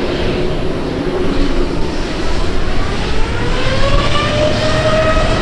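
Aircraft engines running over a steady roar. About two and a half seconds in, their whine rises in pitch and then levels off, as the engines spool up.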